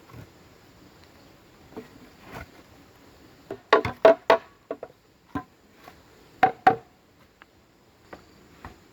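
Sharp knocks on hollow bamboo, each with a short pitched ring. A quick run of four comes about four seconds in, a pair follows a couple of seconds later, and fainter taps fall in between.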